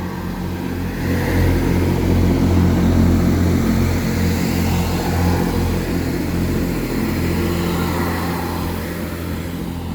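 Class 166 diesel multiple unit's engines running steadily with a deep, even hum.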